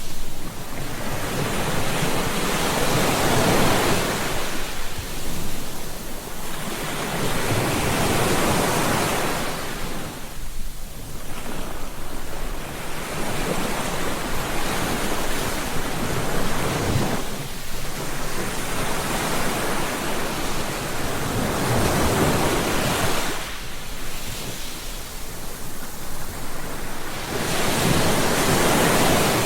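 Ocean surf breaking on a beach, a wash of waves that swells and fades every five or six seconds.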